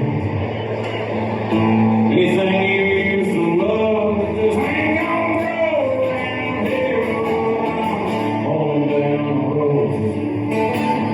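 A live country band playing loudly, with a male lead vocal singing over electric guitar.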